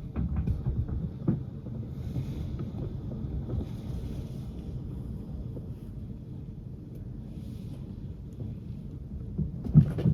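Blizzard wind: a steady, gusty low rush, with buffeting on the microphone and a faint higher hiss of blowing snow for a few seconds in the middle.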